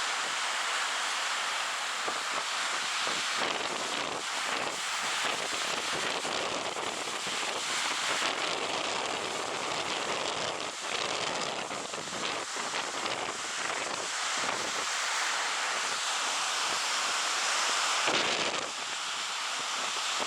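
Stormy sea surf rushing onto a sandy beach, with strong wind buffeting the microphone in gusts.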